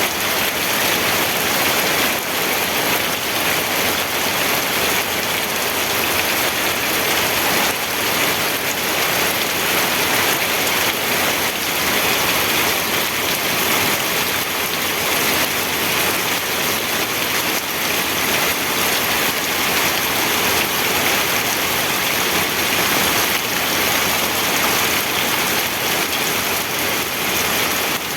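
Steady rain falling hard and evenly, a dense unbroken patter on surfaces.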